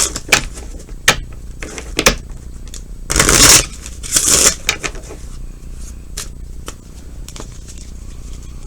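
Tarot cards being shuffled and handled: two short rustling bursts of shuffling about three and four seconds in, with scattered light clicks of cards between them.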